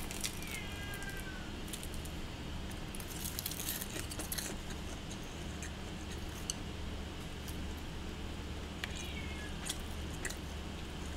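Quiet chewing of crisp seasoned laver sheets, with small crunchy clicks now and then, over a steady low room hum.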